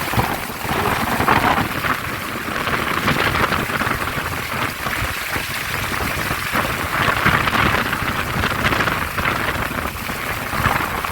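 A storm of rain and strong wind: a steady, dense rushing noise with irregular low rumbling buffets.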